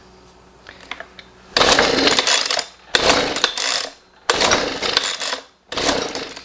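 Three pulls on the recoil starter of a Husqvarna 125B two-stroke leaf blower, each about a second of cranking, with short pauses between them. The engine does not catch and run, the sign of an exhaust blocked by a restricted muffler.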